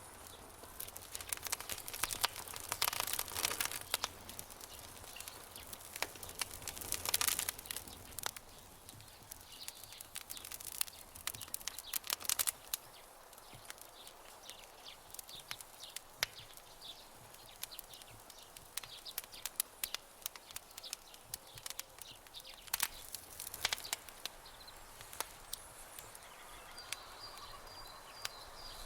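Campfire burning, wood crackling and popping in sharp irregular snaps, with denser bursts of crackle a few seconds in. A thin high steady note joins near the end.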